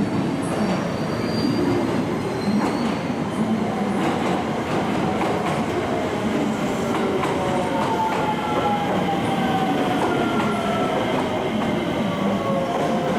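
Electric train running through a station, with a steady rumble of wheels on rails and scattered clicks. From about four seconds in, a whine of several tones falls slowly and steadily in pitch.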